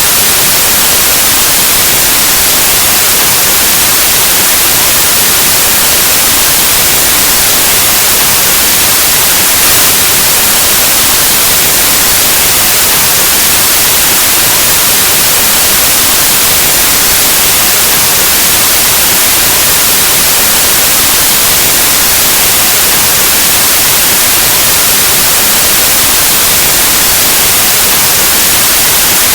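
Loud, steady white noise: an even, unbroken hiss like analog TV or radio static, brightest in the highs.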